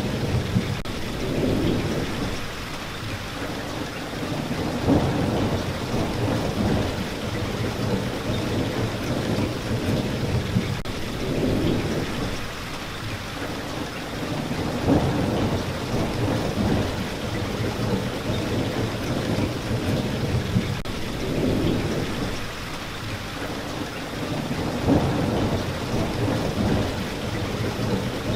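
Steady rain falling, with low rumbles that swell and fade about every ten seconds.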